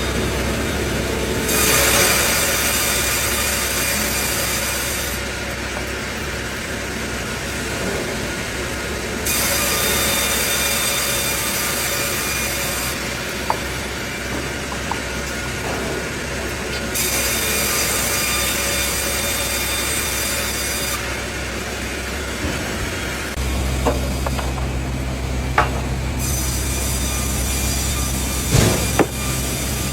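Sawmill saw blade cutting through wood. A high, hissing cutting sound comes and goes about every four seconds over the steady running of the mill machinery, and a low hum joins in near the end.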